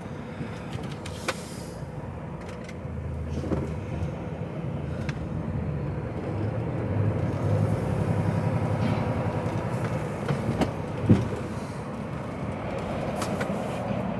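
HGV tractor unit's diesel engine running, heard from inside the cab, growing louder from a few seconds in and easing off after about ten seconds. A single sharp knock about eleven seconds in.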